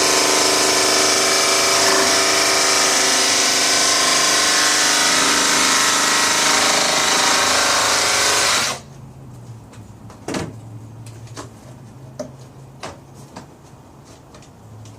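Handheld power tool cutting, its motor running steadily, then shutting off abruptly about nine seconds in; light clicks and handling taps follow.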